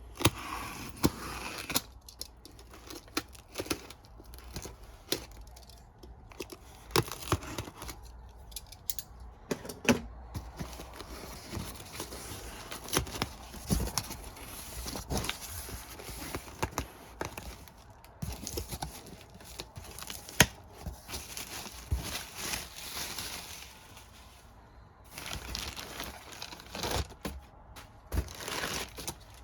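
Packaging being unpacked by hand: plastic and paper tearing and crinkling, with frequent sharp clicks and knocks as disc cases are handled.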